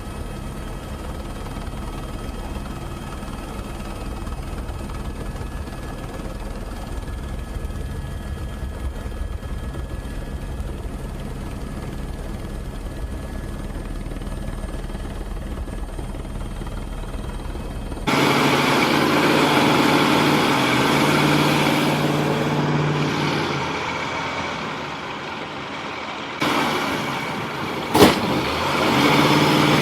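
Heavy vehicle engines running: a steady low rumble that changes abruptly about 18 seconds in to a louder engine sound, with a sharp click near the end.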